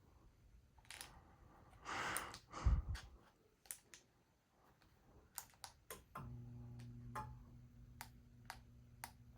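Scattered clicks and a loud thump of handling, then about six seconds in a steady low hum switches on: the 52-inch GE Kaiden ceiling fan's motor starting up, with light ticks over it.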